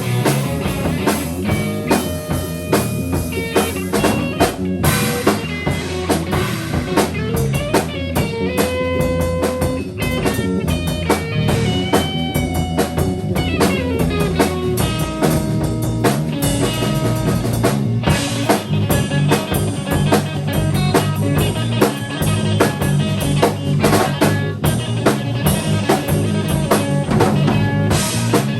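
Improvised live band music: a drum kit keeps a steady beat under guitar, with long held notes and a downward slide in the middle.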